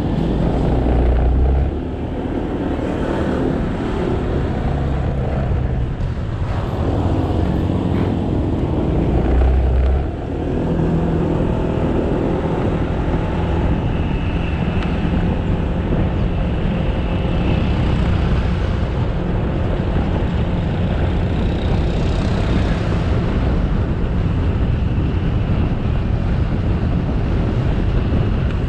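Motorcycle engine running under way, with wind and road noise on the helmet-mounted camera. The engine note drops briefly twice, about two seconds and about ten seconds in.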